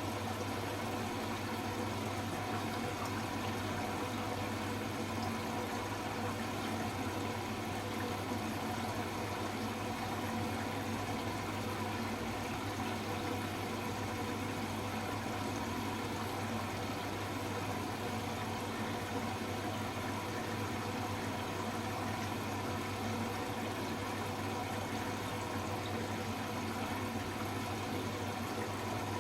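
Hoover H-Wash 300 Plus washing machine running in its rinse programme: a steady low hum with water noise, without change.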